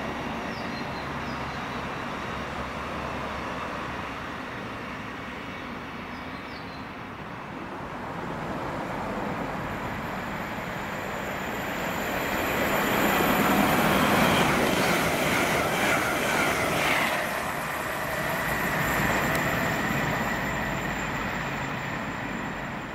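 Passing trains: a Thameslink Class 700 electric unit running on the line, then a Hull Trains Class 802 multiple unit approaching and running past. It is a steady rush of wheel and rail noise that swells to its loudest about halfway through, with a thin high squeal from the wheels in the middle.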